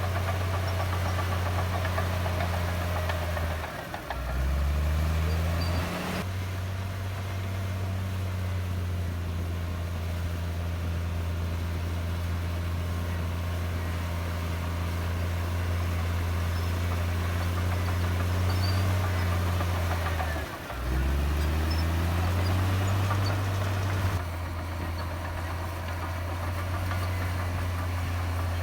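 Komatsu D58E bulldozer's diesel engine running steadily. Twice its pitch dips sharply and climbs back up over a second or two: about four seconds in and again about twenty-one seconds in.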